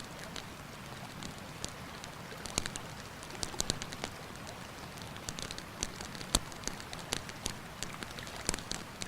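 Wood campfire crackling, with irregular sharp pops scattered throughout, the loudest about six seconds in, over the steady rush of a river.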